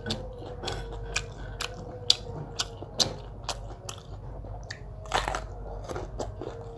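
A person chewing and crunching food: irregular crisp bites and chews about twice a second, with a louder crunch about five seconds in.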